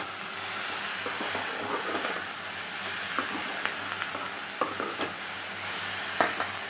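Sprouted green moong and onion frying in oil in a kadhai, with a steady sizzle. A perforated steel skimmer stirs the pan, adding short scrapes and clinks from about three seconds in.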